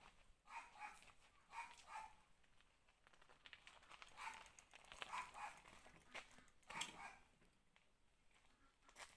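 A dog barking faintly in repeated short barks, in a cluster early on, another about four to five seconds in, and a last bark near seven seconds.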